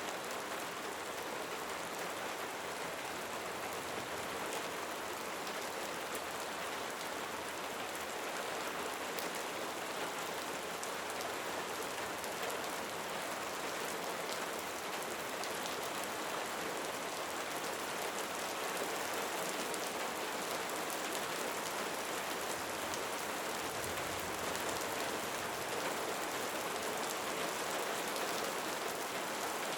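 Steady rain: an even hiss that does not change, with fine drop ticks scattered through it.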